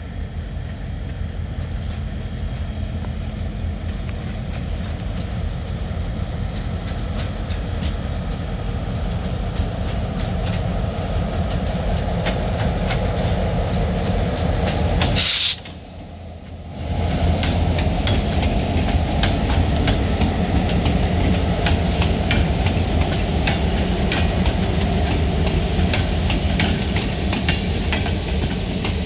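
Diesel freight locomotive running with a steady low rumble while freight cars roll, with frequent clicks and clanks from wheels and couplers that grow busier in the second half. A short sharp hiss about halfway through, then the sound drops away briefly before the rumble returns louder.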